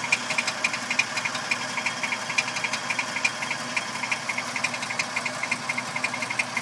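Toyota Tacoma idling with a fast, even ticking rattle, many ticks a second, over the steady engine sound; the owner has not found where the rattle comes from.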